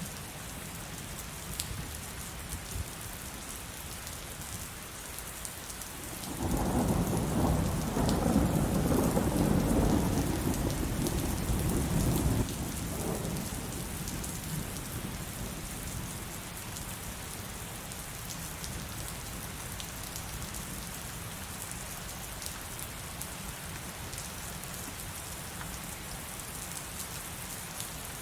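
Heavy rain falling steadily, with a rumbling thunderclap about six seconds in that lasts around six seconds and ends abruptly.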